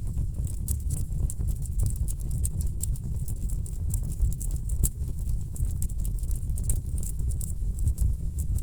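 Wood fire burning in a fireplace: dense, irregular crackles and pops from the burning logs over a steady low rush of the flames.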